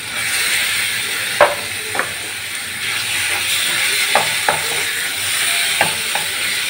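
Raw chicken pieces sizzling in hot oil in a metal frying pan as a wooden spatula stirs them. Several sharp knocks and scrapes of the spatula against the pan sound over the steady sizzle.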